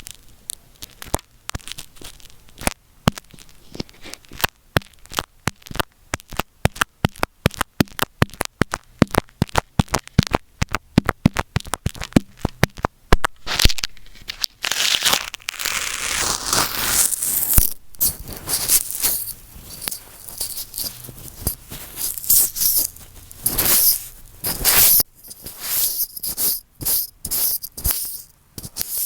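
Close-up handling sounds made directly on an earphone microphone. The first half is a quick run of crisp taps, several a second. From about halfway it turns into denser scratchy rubbing with bursts of clicks, intense and harsh.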